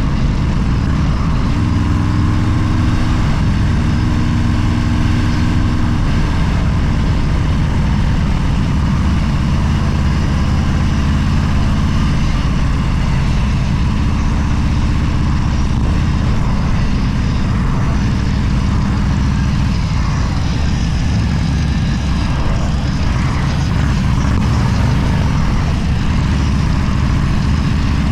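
Motorcycle engine running steadily, loud and continuous, its pitch shifting slightly now and then.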